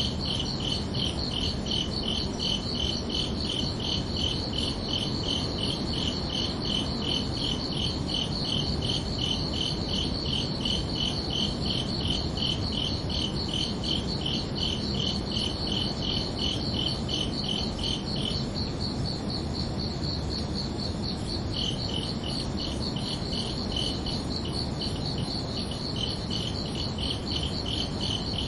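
Crickets chirping in steady, evenly repeated pulses, two of them at slightly different pitches. The lower-pitched one stops for about three seconds after the middle and then resumes, all over a steady low background hiss.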